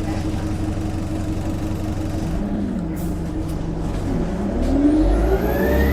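Diesel bus engine idling steadily, then revving up hard, with a high turbo whistle rising in pitch over the last couple of seconds.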